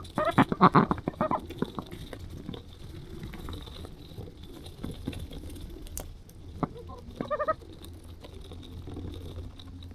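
Domestic ducks quacking in short calls, a cluster in the first second or so and a few more around seven seconds in.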